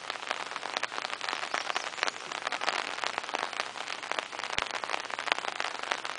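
Steady rain falling, with many close drops ticking sharply against a hiss of rain.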